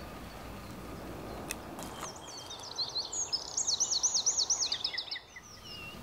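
A small songbird singing a quick phrase of high, rapidly repeated notes, starting about two seconds in and lasting about three seconds, over a steady outdoor background hiss.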